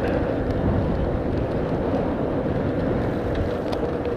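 Steady riding noise of a HappyRun electric motorbike under way, a dense rush of wind and road sound with a faint steady whine in it.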